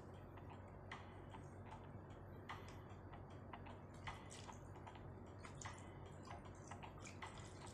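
Faint, irregular small clicks and light taps, as of objects being handled, over a low steady hum.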